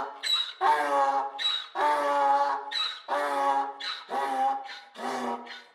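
Donkey braying a repeated hee-haw, about five cycles in a row. Each cycle is a short high squeal followed by a longer, lower honk.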